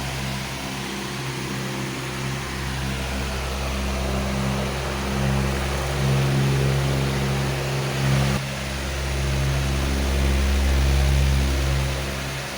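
Powerful electric fan running steadily: rushing air with a low hum that swells and fades every few seconds.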